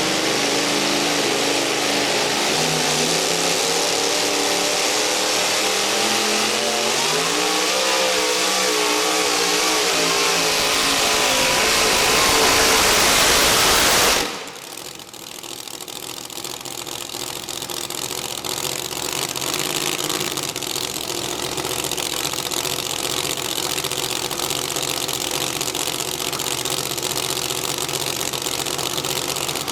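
Modified two-wheel-drive pulling truck's engine at full throttle under load, pulling the sled, its pitch climbing over several seconds before it cuts off abruptly about 14 seconds in. After that a quieter engine runs steadily.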